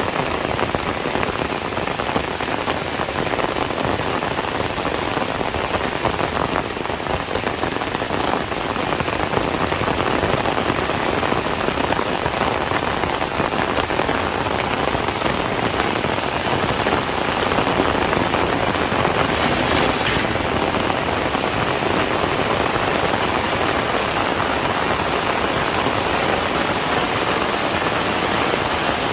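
Heavy rain falling steadily, a dense even hiss of drops hitting surfaces, with a brief louder swell about two-thirds of the way through.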